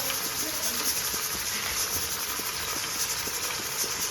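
Food frying in hot oil in a pan: a steady sizzle with small crackles and pops.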